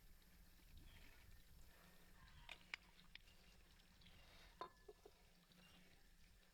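Near silence: faint room tone with a low steady hum, broken by a few soft clicks and taps about two and a half seconds in and again near five seconds.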